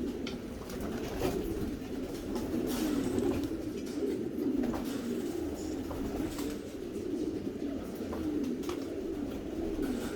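Many homing pigeons cooing together in a continuous, overlapping chorus, with scattered sharp clicks and taps.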